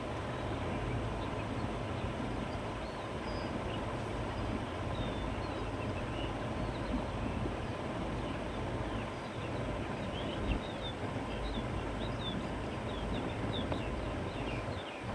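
Steady countryside wind blowing through grass, a constant low rush, with small birds chirping faintly, more often in the second half.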